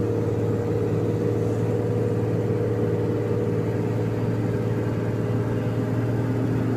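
Vehicle engine running at a steady pitch while driving, a constant drone with road noise, heard from inside the cab.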